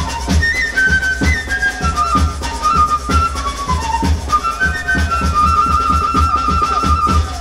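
Peruvian Amazonian folk dance music: a flute plays a quick melody over a steady drumbeat, ending on a long trilled note in the last couple of seconds.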